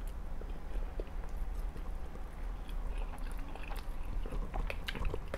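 Close-miked chewing of a mouthful of spaghetti, with scattered small wet mouth clicks over a steady low hum. Near the end the clicks come thicker as a fork twirls noodles in a paper plate.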